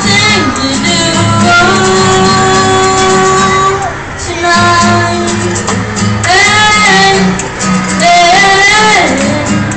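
A boy singing long, held and sliding notes over strummed guitar, played live in a large hall.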